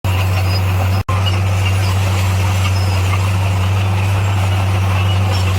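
Bulldozer's diesel engine running steadily with a deep, even drone, cutting out for an instant about a second in.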